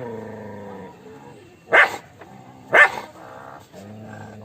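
A dog barking twice, two short loud barks about a second apart. A steady low drone sounds under the start and again near the end.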